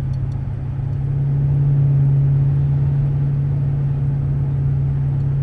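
2013 Dodge Charger's engine running steadily under way, a deep drone that swells a little about a second in and then holds.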